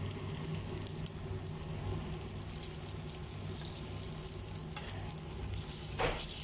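Battered cauliflower frying in hot oil in a pan, a steady sizzle, with one sharp knock near the end.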